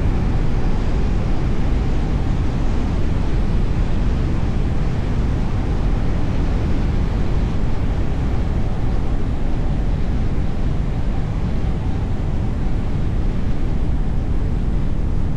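Steady road noise of a car driving: an even, deep rush of tyres and wind with no distinct events.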